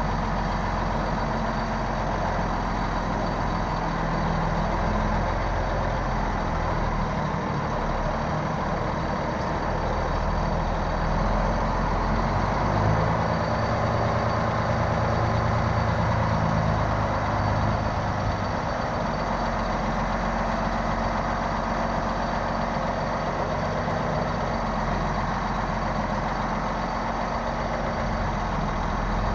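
Grain truck's engine running steadily and loud, its note changing for a few seconds about halfway through before settling again.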